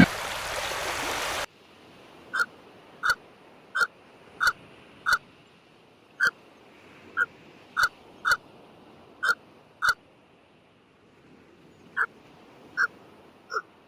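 A series of short, sharp animal calls repeated about once or twice a second, with a brief pause partway through. It follows a louder, noisier sound that cuts off about a second and a half in.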